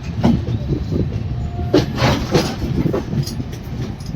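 Passenger train running slowly, heard from inside the coach: a steady low running noise with irregular clacks as the wheels cross rail joints.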